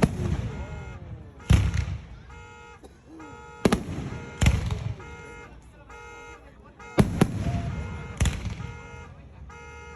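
Aerial fireworks bursting: about seven sharp booms, some in quick pairs, each trailing off as it echoes. Between the booms a pulsing electronic alarm tone sounds in short repeated bursts.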